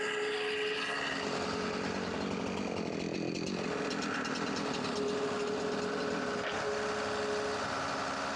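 Chainsaw running steadily, cutting into the fallen tree's wood.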